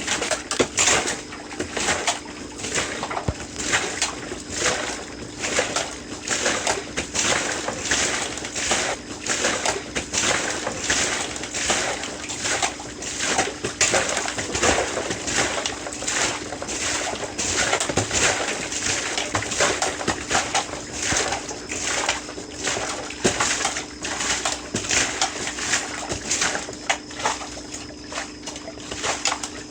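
Heavy rain pouring down, with a dense, irregular patter of drops splattering close by.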